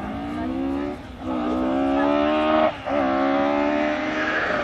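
Rally car's engine pulling hard under acceleration, its pitch climbing, with two brief breaks, about a second in and just under three seconds in, as it shifts up a gear.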